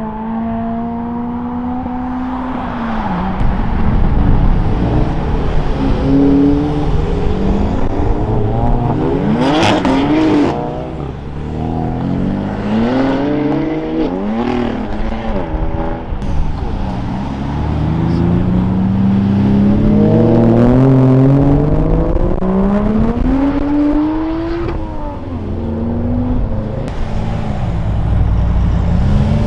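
Modified cars accelerating away one after another, their engines revving up, dropping back and climbing again through the gears. One car is loudest as it passes about ten seconds in.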